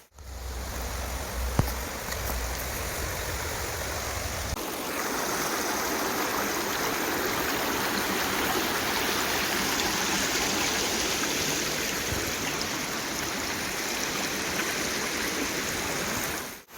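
Flowing river water rushing steadily, with a low rumble under it for the first four and a half seconds; after that the water is a little louder.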